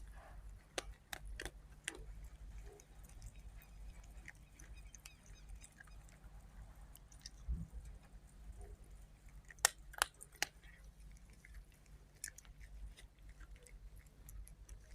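A kitten chewing catnip, with scattered small crunchy clicks from its bites and a few sharper ones about ten seconds in.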